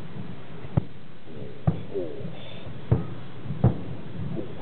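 Fireworks bursting: a series of sharp booms at uneven intervals, about a second apart, four in all.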